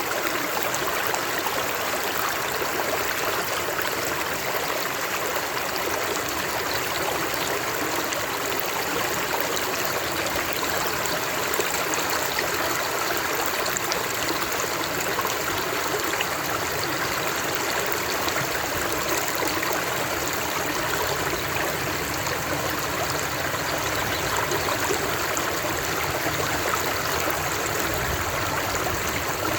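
Running water of a stream flowing steadily, an even rushing and trickling without breaks.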